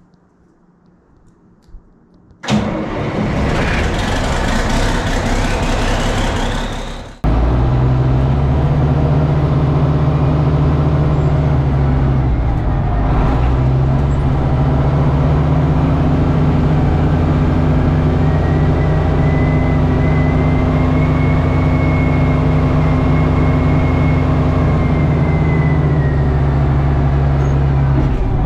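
An old John Deere loader tractor's engine being started: the starter cranks for about five seconds, then the engine catches abruptly and settles into a steady idle.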